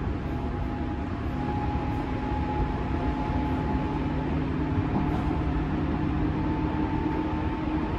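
Running sound inside a JR 205 series 3100 electric train car: a steady rumble of the wheels on the rails, with a faint hum from the motors and gears at a couple of pitches that edges slightly higher in the second half.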